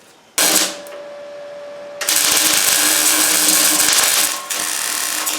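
Workshop power tool running: it starts abruptly with a steady whine, then from about two seconds in a much louder harsh hiss with a lower steady hum, easing slightly near the end.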